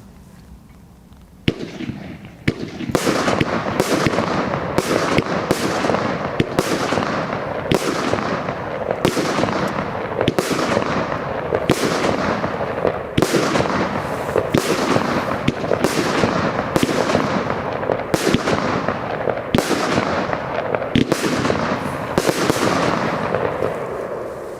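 A firework barrage (multi-shot cake) firing: a first sharp bang, then a rapid run of shots a little over one a second over continuous crackling, fading out near the end.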